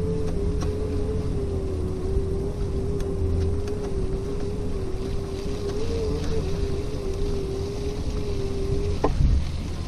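RadMini electric bicycle riding, with a steady mid-pitched whine over wind and tyre rumble. The whine cuts off with a click about nine seconds in, leaving the rumble.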